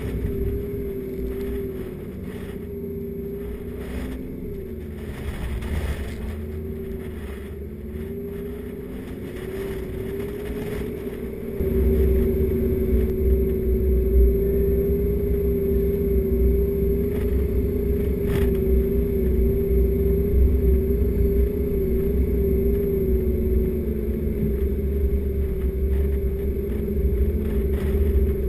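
Four-wheel-drive vehicle engine droning steadily over a low rumble while driving a sand track. About twelve seconds in, the sound gets louder and heavier.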